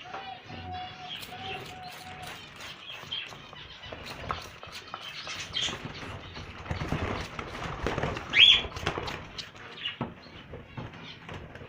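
Caged aviary birds, budgerigars among them, chirping and twittering, with bursts of wing flapping. A loud, sharp rising chirp comes about eight and a half seconds in.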